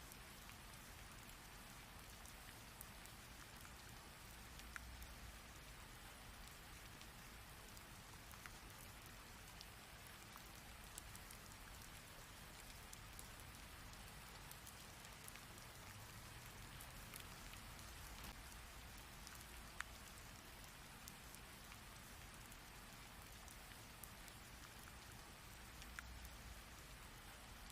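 Steady rain falling, a fairly quiet even hiss with the sharp tick of a single close drop every few seconds.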